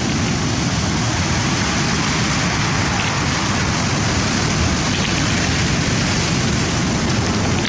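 Steady, loud roar of rough sea surf.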